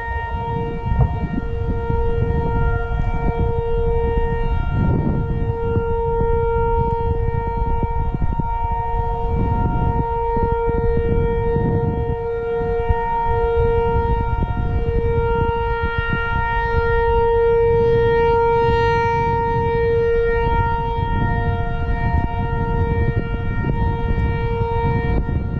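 Outdoor warning siren sounding a steady tone that swells and fades every few seconds.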